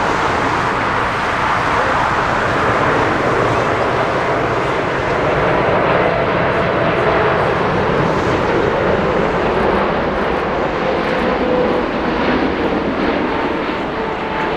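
Jet airliner's engines, a loud, steady noise with a faint whine slowly falling in pitch as the aircraft passes; it eases off near the end.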